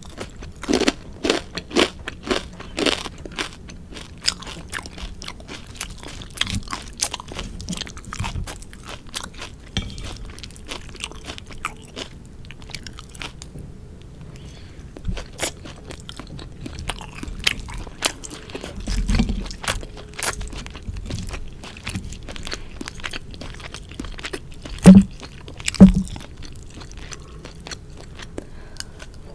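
Close-miked eating of sukiyaki: biting and chewing with many sharp crunchy clicks and wet mouth sounds, busiest in the first few seconds. Near the end come two louder low thumps about a second apart.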